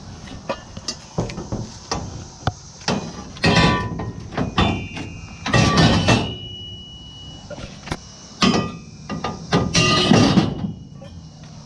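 Scrap metal being handled and dropped: a series of clanks and bangs, several ringing briefly with a metallic tone, the heaviest clatters near the middle and about two-thirds of the way through.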